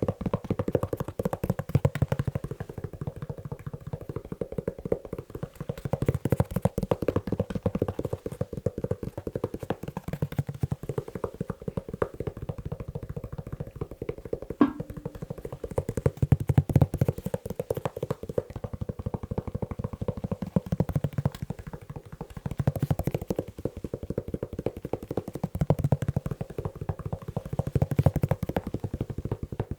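Fingertips and nails tapping fast on a leather shoe: a dense run of dull, rapid taps that swells and eases every few seconds.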